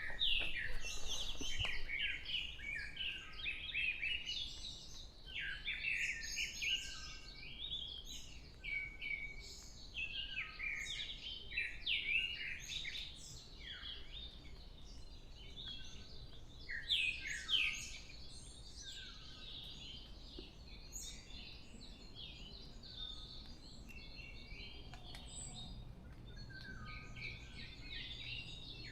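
Several forest songbirds singing and calling in a dawn chorus: overlapping chirps and short whistled phrases, busiest in the first half and thinning out toward the end.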